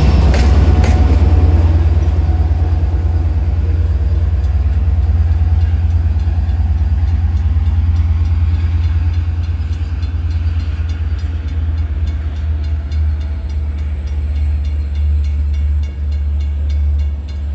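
Long Island Rail Road diesel train of bilevel coaches rolling past and pulling away. Wheels click over the rail joints in the first second, then a deep rumble fades slowly as the train departs. In the second half a grade-crossing bell rings at about three strikes a second.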